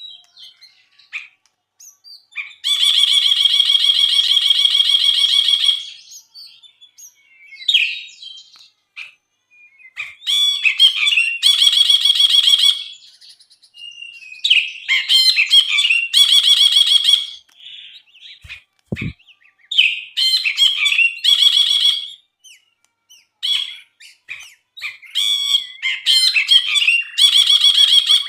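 A brinji (bulbul) singing in repeated phrases: quick varied chirps, each run ending in a long, buzzing rattle, about four phrases in all. A single brief low thump comes about two-thirds of the way through.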